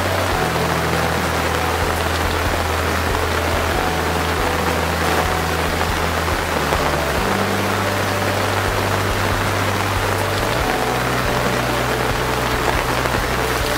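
Heavy monsoon rain falling steadily, a dense even hiss of drops on surfaces. Soft background music of low held notes sits beneath it, changing every few seconds.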